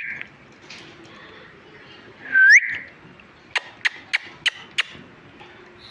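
Pet parrot giving one loud whistle that sweeps up in pitch about two seconds in, followed about a second later by five sharp clicks in quick succession.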